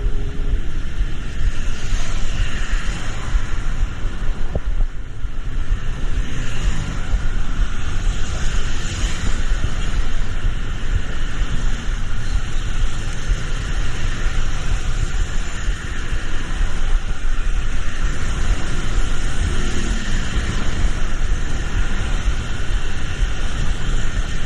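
Steady low rumble of road traffic mixed with the even hiss of rain.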